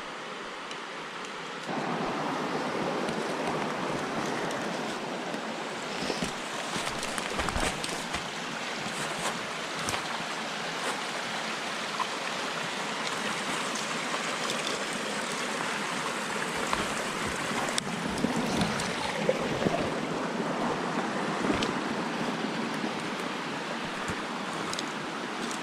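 Rushing stream water, a steady rush that gets louder about two seconds in, with scattered small clicks and knocks over it.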